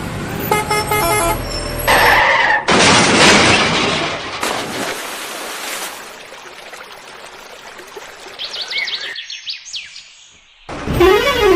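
Cartoon vehicle sound effects in quick succession: pulsing horn toots, then a loud hiss lasting a few seconds, a few quick rising chirps, and near the end a warbling tone that rises and falls like a siren.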